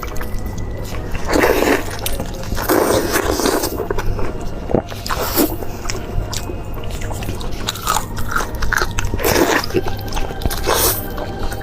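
A person biting and chewing food close to the microphone, one bite or chew every second or two, some of them crunchy and wet.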